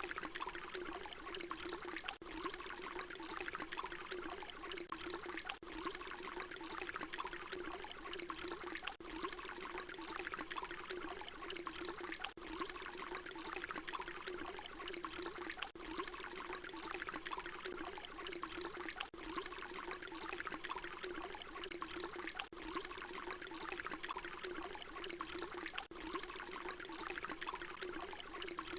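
Water pouring in a steady, continuous stream, with a brief dip about every three and a half seconds.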